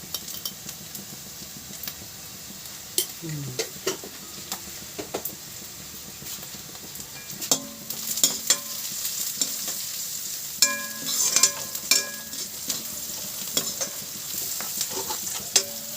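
Onion, ginger and garlic frying in ghee with freshly added turmeric, sizzling steadily while being stirred, the spoon knocking and scraping against the pan now and then, more often in the second half.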